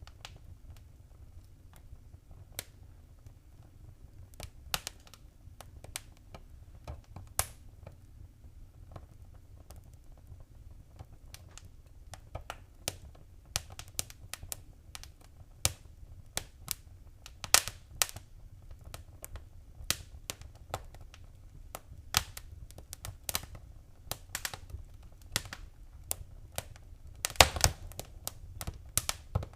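Wood fire burning in a fireplace, crackling and popping irregularly over a low, steady rumble of the flames; the pops come more often as it goes on, with a burst of loud crackles near the end.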